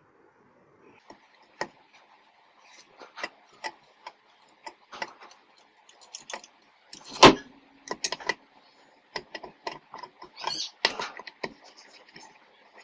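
An 8 mm T-handle wrench tightening the cover bolts on a Honda CD 70 engine in a crosswise pattern: irregular metal clicks and clinks of the tool on the bolts and casing, with one louder knock about seven seconds in.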